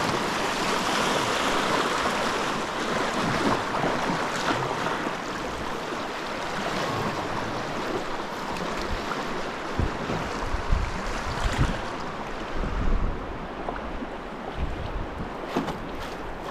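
Fast river water rushing through a rapid, a steady whitewater hiss that is loudest in the first few seconds and then eases off. Short low bumps of wind or knocks on the microphone come several times in the second half.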